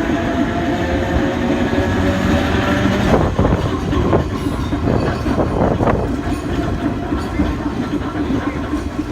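St. Charles Avenue streetcar running on its rails, with a steady running sound and a faint motor whine. Between about three and six seconds in comes a run of sharp clacks from the wheels.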